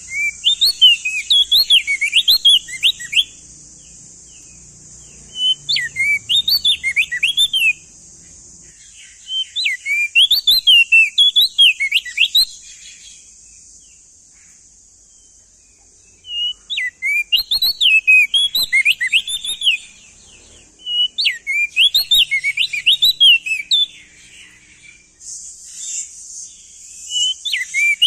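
Male crested white-eye (opior jambul) singing: about six loud phrases of rapid, quickly gliding whistled notes, each lasting two to three seconds, with short pauses between, over a steady high hiss.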